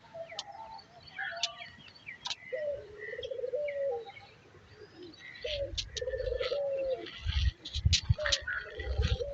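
Pigeons cooing: three rolling coos, each a rising note followed by a throbbing stretch, over small birds chirping. Low thumps come in over the second half.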